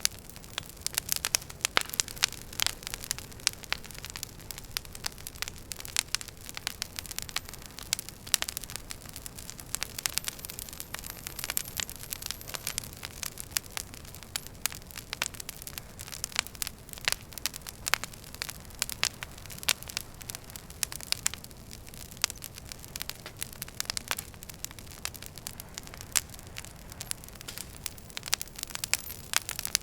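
Wood fire burning in a fireplace: irregular sharp crackles and pops from the burning logs over a steady low hiss, with a faint brief high whistle about ten seconds in.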